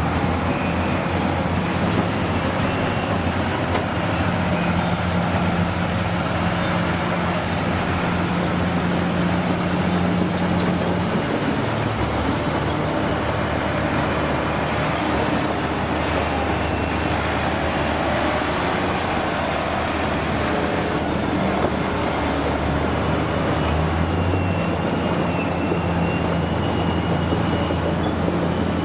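Heavy diesel truck engines running steadily, their low engine note changing about 12 seconds in and again near the end.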